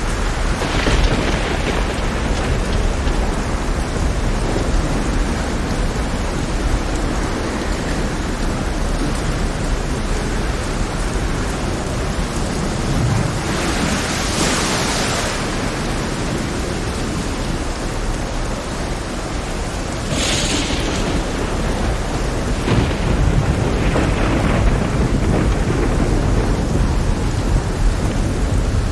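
Heavy rainstorm with thunder: a steady hiss of rain over a constant deep rumble. Louder hissing swells come about a second in, around the middle, and twice more in the last third.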